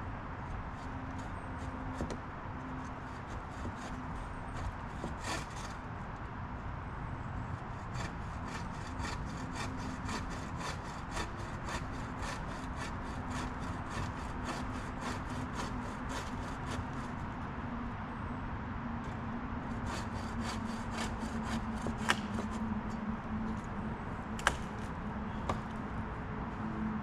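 Hand saw cutting through a fallen tree limb in rhythmic back-and-forth strokes, about three a second, with a pause partway through before a shorter run of strokes.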